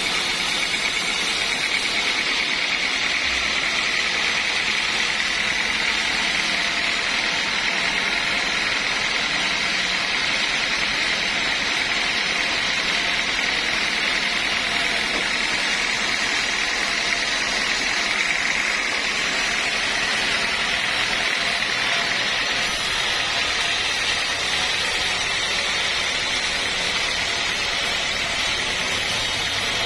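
Sawmill machinery running with a loud, steady, unbroken noise.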